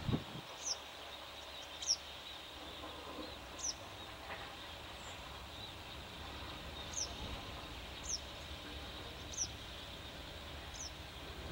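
A bird's thin, high call: one short falling note, repeated about every second and a half, over a steady low background hum.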